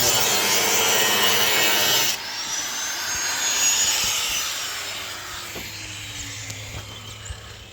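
Power tool cutting through bolts: a loud rasping noise that stops suddenly about two seconds in, then the tool winding down with a falling whine.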